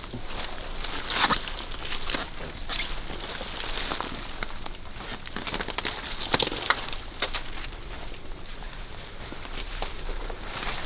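Footsteps pushing through marsh scrub, with irregular crackling, snapping and rustling of reeds and dry sticks.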